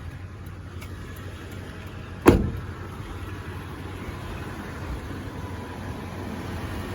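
A pickup truck door shuts with a single sharp thud about two seconds in, over the steady low idle of the 2016 Toyota Tundra's 5.7-litre V8.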